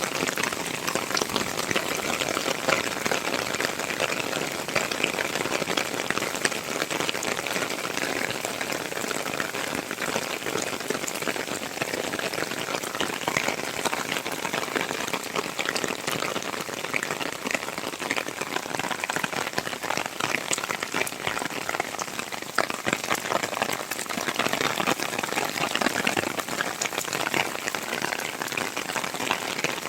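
Heavy rain falling steadily, a dense, even patter of drops hitting the ground and nearby surfaces.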